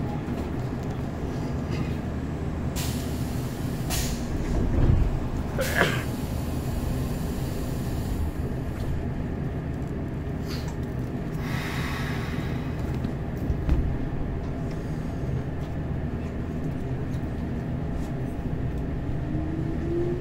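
Hanshin Railway electric train standing at a station, heard from inside the car: a steady low rumble with a few sharp clicks and a brief hiss. Near the end a rising electric motor whine sets in as the train starts to pull away.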